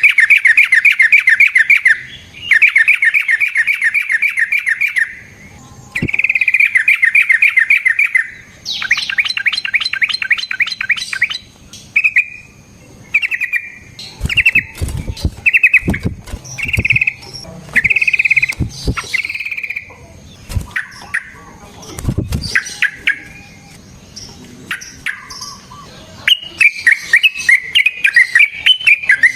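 Yellow-vented bulbul (trucukan) singing. Long, fast rattling trill phrases of about two to three seconds each give way to a string of shorter, separate chirping notes, and a rapid run of notes comes near the end. A few dull knocks sound in the middle.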